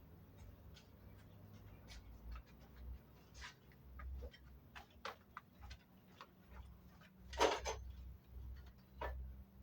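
Scattered light clicks and knocks, irregular and a second or so apart, with one louder knock about seven and a half seconds in, as wood and hand tools are handled.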